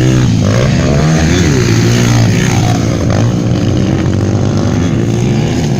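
Several 150cc motocross motorcycle engines running together, their pitch rising and falling repeatedly as the riders rev and ease off.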